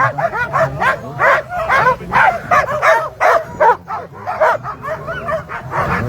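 A team of Alaskan husky sled dogs barking and yelping in a dense, overlapping chorus. This is the eager clamour of a team waiting at the start line to be let go.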